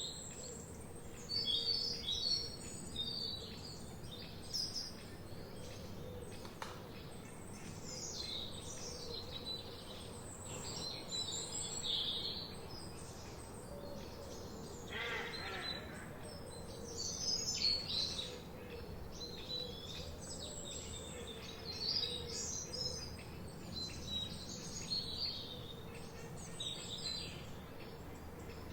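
Forest songbirds chirping and singing, many short overlapping calls and song phrases over a steady low background hiss. About fifteen seconds in, a lower call with rapid pulses stands out.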